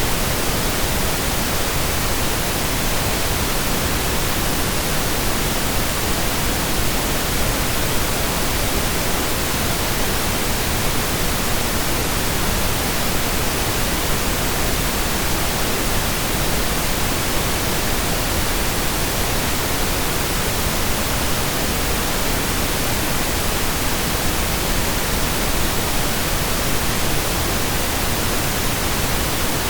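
Synthesized pink noise: a steady, even hiss spread across the whole range, with no events or changes.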